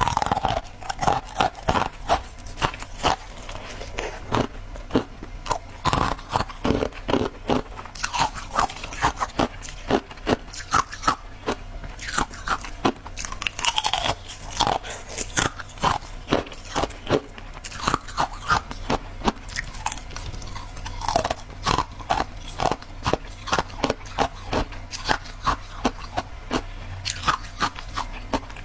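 Close-up eating of crunchy shaved ice: steady biting and chewing, with many sharp crunches and crackles, several a second.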